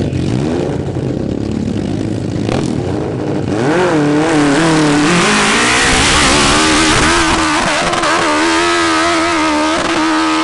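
Hill-climb motorcycle engine: a low rumble at first, then about four seconds in it revs up hard, its pitch rising and falling as the throttle is worked, and settles into a loud, steady high note at full throttle.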